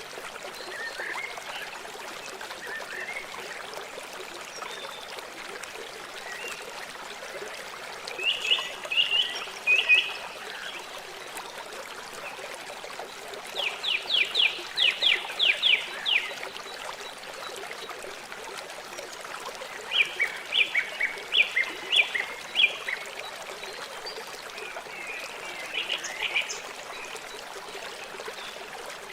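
River water flowing steadily, with four bursts of animal calls over it, each a quick series of short high notes lasting one to three seconds.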